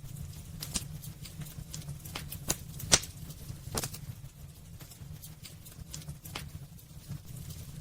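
Wood fire burning in a fireplace: irregular sharp crackles and pops, a few louder ones in the first four seconds, over a low steady rumble of the flames.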